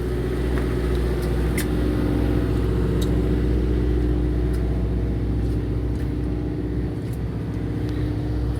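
Steady hum of a fishing boat's engine running at an even speed, with a few faint ticks over it.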